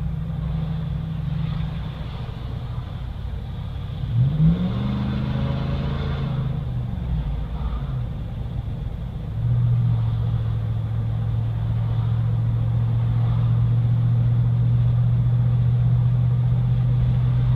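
2014 Ram 2500's 6.4 Hemi V8 running through a 40 series Flowmaster muffler with the resonator deleted, heard from inside the cab while driving. It has a deep tone with a little rasp. About four seconds in the engine revs up and falls back, and from about nine seconds it holds a louder, steady low drone.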